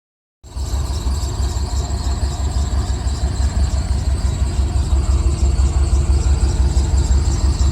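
A pickup truck's engine idling, with a steady high-pitched drive-belt squeal over a pulsing low rumble. The squeak is blamed on the belt tensioner, a diagnosis he only half-accepts ("quote unquote").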